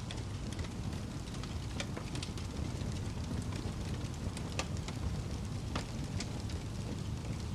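Wood fire burning in a fireplace: a steady low rumble with irregular crackles and sharp pops, a few louder ones around two, four and a half and six seconds in.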